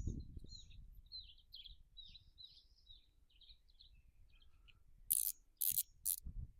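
A small songbird singing a quick run of short high chirping notes, fading out after about four seconds. Near the end come three short hissing rushes about half a second apart, louder than the song.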